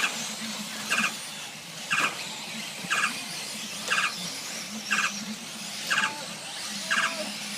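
Eight short electronic beeps from the race timing system, one each second, each a quick warble on two pitches: the countdown of the race's final seconds. Faint track noise underneath.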